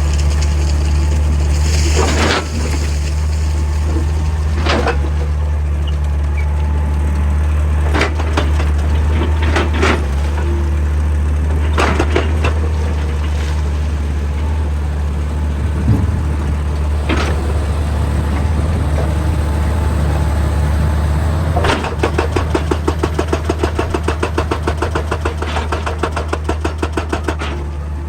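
Excavator's diesel engine running steadily under load, with scattered single metallic knocks. About three-quarters of the way in, a hydraulic rock breaker starts hammering in a fast, even run of blows.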